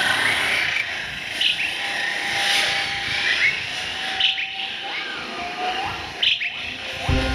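Birds chirping over steady outdoor ambience: short, sharp chirps about once a second, with a few lower whistled calls near the end.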